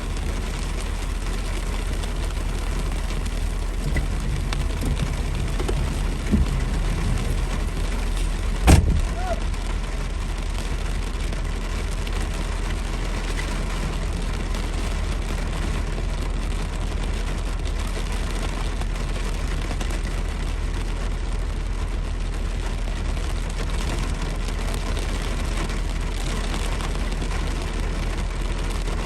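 Steady rumble of a car driving in heavy rain, with one sharp knock about nine seconds in.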